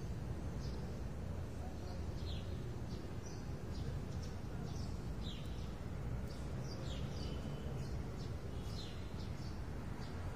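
Small birds chirping in short, quick calls, irregular and several a second at times, over a steady low background rumble.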